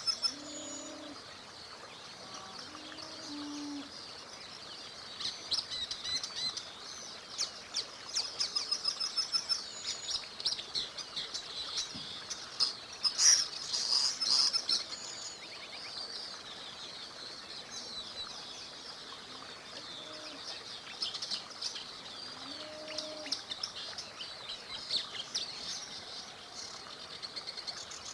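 Several songbirds chirping and trilling in chorus, busiest and loudest around the middle, over a faint steady background hiss. A few short low calls sound near the start and again later.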